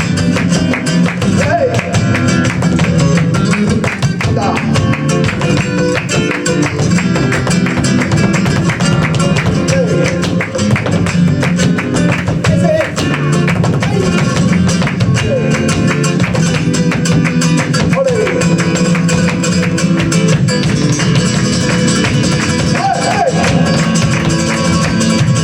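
Live flamenco music for a farruca: guitar playing steadily, with dense, sharp percussive strikes throughout.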